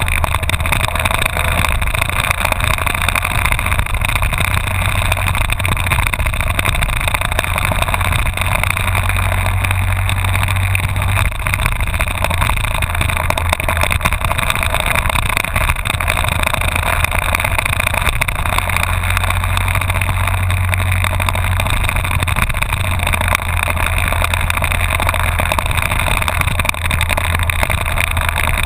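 Honda VFR1200F's V4 engine running steadily at cruising speed while riding, with wind and road noise, the engine note swelling slightly twice.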